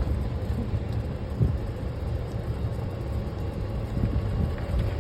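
Steady low rumble of a car's engine and tyres as it drives slowly.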